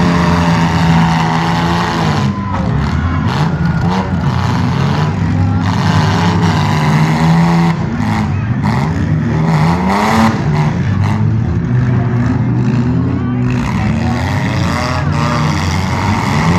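Several demolition derby cars' engines revving up and down at once, their pitches rising and falling, mixed with the thuds of cars ramming each other.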